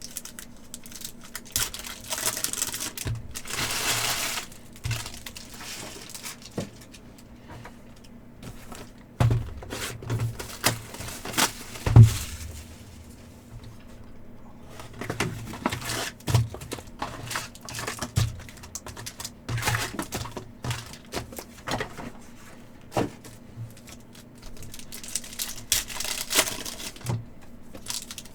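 Trading card packs being handled and opened: wrappers crinkling and tearing, with cards and boxes clicking and tapping on a table. One louder knock about twelve seconds in.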